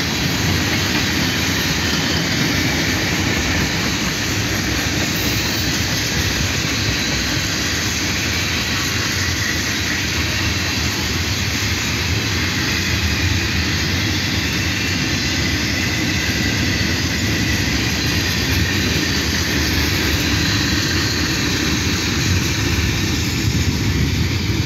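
Union Pacific freight cars (tank cars, boxcars and covered hoppers) rolling past: a steady noise of steel wheels running on the rails.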